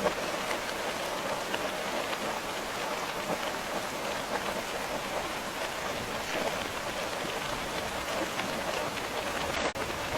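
Steady rain falling, a dense even hiss with many small drops pattering. About nine and a half seconds in the sound briefly dips and cuts out in its highest part for a moment.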